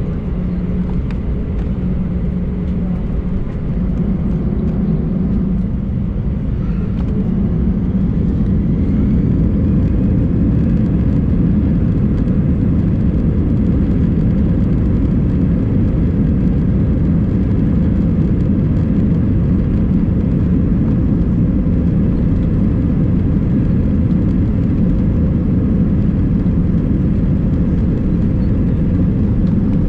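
Cabin noise of an Airbus A319 taxiing: a steady low rumble from the jet engines and rolling airframe. It grows louder about eight seconds in, then holds steady.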